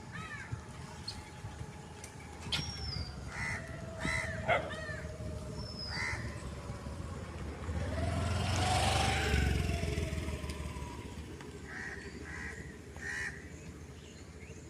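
A vehicle passes by, swelling to its loudest about nine seconds in and fading again, while short, harsh animal or bird calls ring out several times, a cluster in the first few seconds and a few more near the end.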